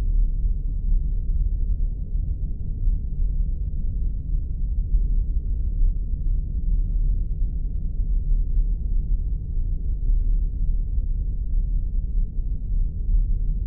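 Sci-fi spaceship ambience: a steady, deep rumbling drone, all low in pitch, with no high sounds and no breaks.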